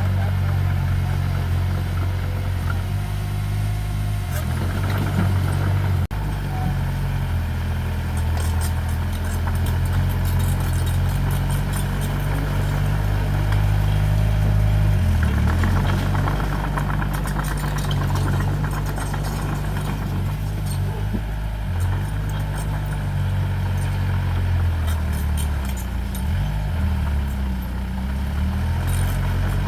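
Diesel engine of heavy earthmoving machinery running steadily, its pitch dipping and shifting now and then as the load changes.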